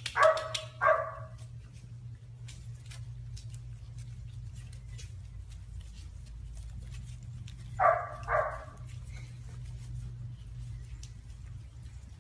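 A dog barking in two pairs of short barks, one pair at the start and another about eight seconds in, over a low steady hum and faint scattered clicks.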